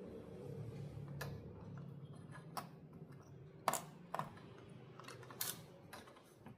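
Six or so light, irregular clicks and taps over a faint low hum that fades out near the end.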